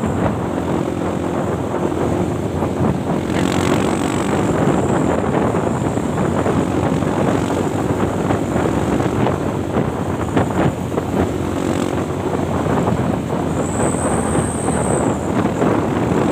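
Heavy truck engine running, with road rumble and wind buffeting on the microphone.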